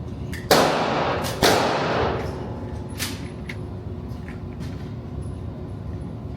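Two gunshots about a second apart, each trailing off in a long echo, followed by a fainter shot about three seconds in and scattered small clicks.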